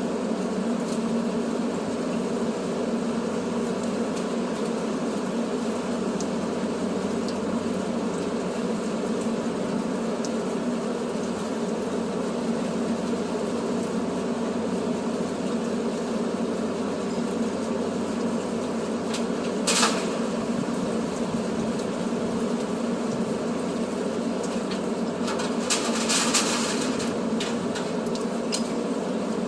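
Steady drone of a running truck engine, heard from inside the cab. There is a sharp click about two-thirds of the way in and a brief spell of rattling clicks near the end.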